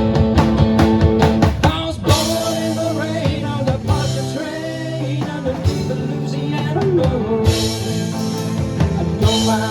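A live rock band playing an instrumental passage: drum kit with cymbals over sustained guitar and bass notes. A quick run of sharp drum strokes gives way to cymbal crashes about two seconds in.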